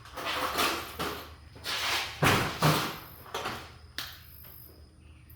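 Sectional garage door moved along its tracks in a series of uneven rolling, scraping swishes; its worn rollers run rough and noisy.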